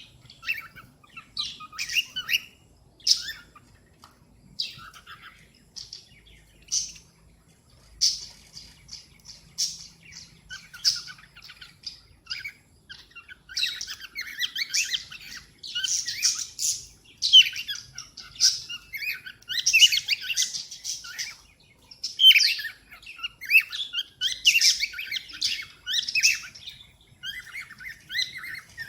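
Cockatiel chirping and calling in short, high chirps, scattered at first and becoming busy and nearly continuous about halfway through.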